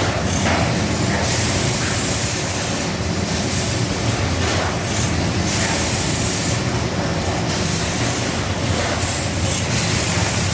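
JJX-850C hardcover case lining machine running: a steady mechanical hum with short hisses every second or two.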